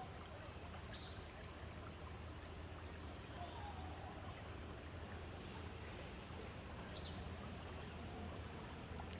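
Steady faint rush of river water flowing. Two brief high bird chirps come through, one about a second in and another about two seconds before the end.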